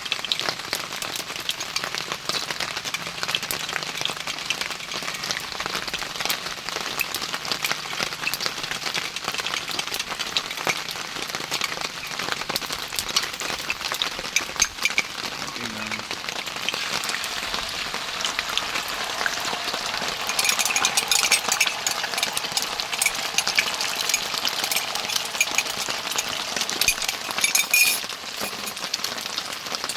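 Heavy rain falling steadily as a dense, crackling hiss. About two-thirds of the way through it turns louder and brighter for several seconds, then drops back suddenly near the end.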